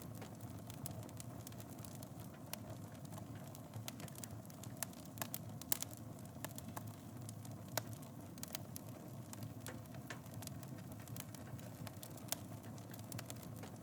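Wood fire burning in a fireplace: a steady low rush of flames with irregular sharp crackles and pops, a few louder snaps about six and eight seconds in.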